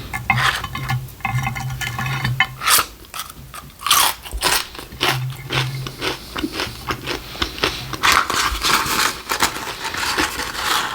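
A person biting and chewing crunchy food close to the microphone: a string of crisp crunches and mouth clicks, thickening into dense crunching about eight seconds in.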